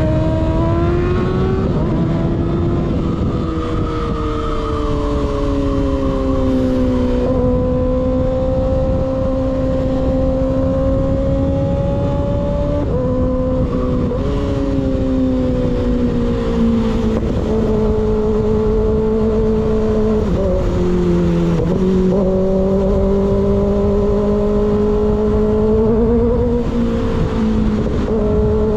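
Motorcycle engine with a baffle-less slip-on exhaust running at steady cruising revs, its note drifting slowly up and down, over heavy wind rush. The pitch dips and picks up again briefly a few times, about seven, thirteen and twenty-one seconds in, as the throttle changes.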